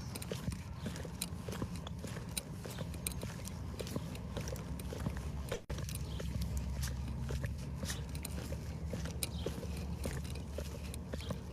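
Footsteps crunching in snow at a steady walking pace, over a steady low rumble. The sound drops out for an instant about halfway through.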